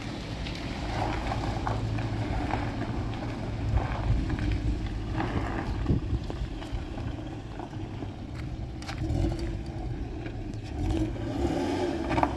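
Motor vehicle's engine running with a steady low rumble, with a few short knocks and rustles over it.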